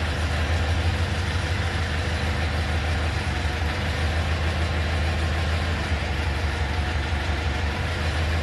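Propane engine of a Daewoo G25S forklift running steadily at idle, a low even hum.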